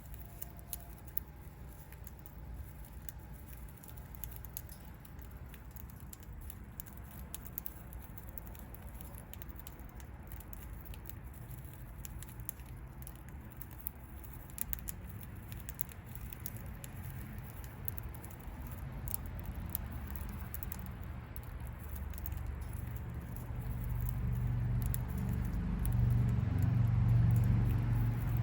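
Budgie's beak nibbling and cracking seeds: a scatter of faint, irregular little clicks and crackles. A low rumble swells over the last few seconds.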